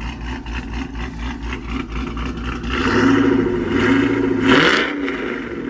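Cammed GM pickup's V8 running at a choppy idle, then revved up about three seconds in, held briefly and let drop back to idle.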